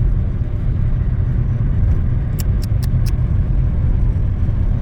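Steady low rumble of a car driving, heard from inside the car, with a quick run of four light ticks about halfway through.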